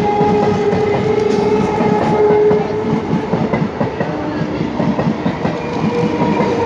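Electric multiple-unit suburban local train running past, its wheels clacking over the rail joints, with a steady whine over the rumble.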